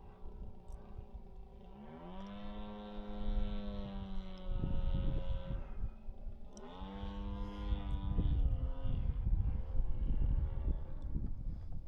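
Two-stroke gasoline engine (G26) of a large RC Piper Cub model, with an 18x8 propeller, running in flight, its pitch climbing about two seconds in, dropping and climbing again around six seconds, and sinking near nine seconds. Gusts of wind buffet the microphone through the second half.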